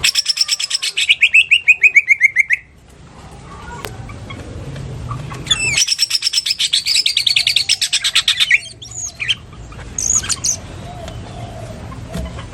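Cucak ijo (green leafbird) singing loud lovebird-style 'ngekek' chatter. A long, very rapid trill slides down in pitch for about two and a half seconds. After a short pause comes a second rapid trill about three seconds long, then a few short sharp notes.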